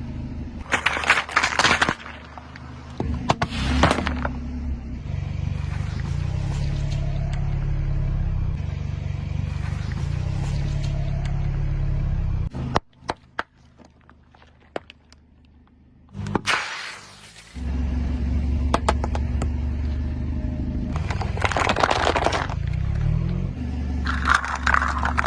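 A car's engine runs low and steady while its tyre rolls over objects and crushes them, with crackling crunches of about a second each, heard several times. The engine sound drops out briefly about halfway through.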